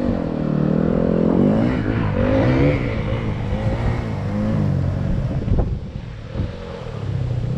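Dirt bike engine running under load, its revs rising and falling as it rides. There is a sharp knock about two-thirds of the way through.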